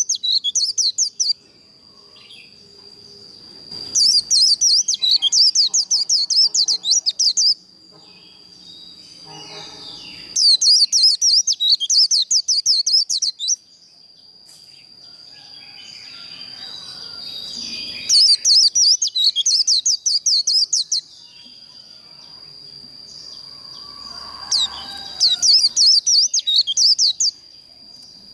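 A white-eye (vành khuyên) singing its fast twittering 'líu' song in bursts of about three seconds, with pauses between, five times, over a steady thin high tone.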